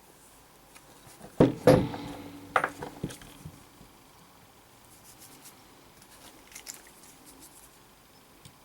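Small metal tools or parts clattering on a workbench: a loud clink and clatter with a brief ring about a second and a half in, a second smaller clatter near three seconds, then light ticks and taps.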